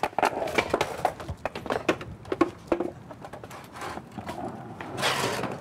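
Skateboards clattering as several riders set off: wooden decks and wheels knocking and clicking irregularly on pavement. A louder spell of hiss comes near the end.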